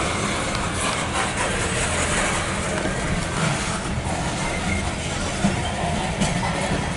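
Loaded coal hopper cars of a CSX freight train rolling past. Their steel wheels make a steady rumble on the rails, with a few faint clicks.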